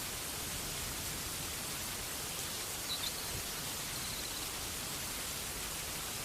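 Steady rain falling, an even hiss with no break. A couple of brief faint high chirps come about three seconds in.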